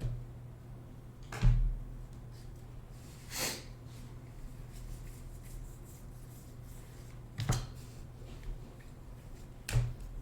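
A few sharp knocks and one brief rustle as trading-card packs and cards are handled on a table, over a low steady hum.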